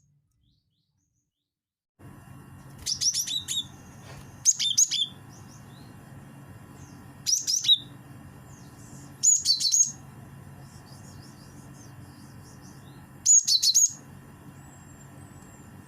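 Cinereous tit (gelatik batu) calling: five short bursts of rapid, high chipping notes a few seconds apart, over a steady low hum. The first two seconds are silent.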